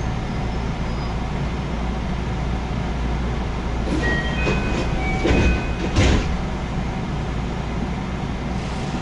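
JR West 221 series electric train running, heard from inside the car: a steady rolling rumble, with a cluster of sharp wheel knocks and several brief high metallic squeals between about four and six seconds in.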